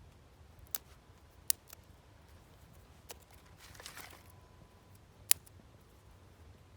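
A few sharp, isolated clicks or pops, irregularly spaced, the loudest about five seconds in, with a brief soft rustle just before the middle.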